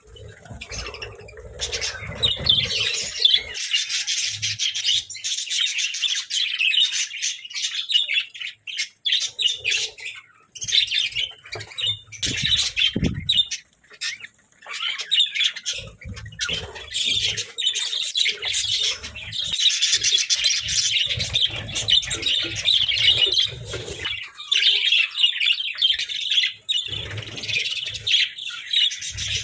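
Budgerigars chattering and warbling almost nonstop, a fast jumble of chirps and short squawks. Soft low rustles and bumps come and go.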